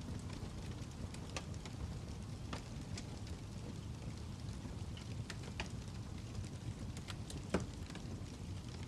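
Fire crackling: a steady low rumble with scattered sharp pops and snaps, the loudest about seven and a half seconds in.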